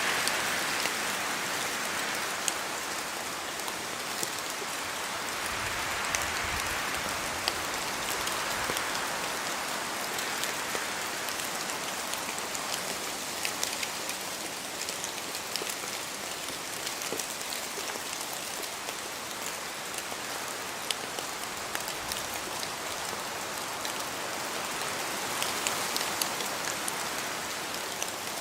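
Steady rain falling in a forest, with scattered louder drops dripping from the trees and slow swells of wind.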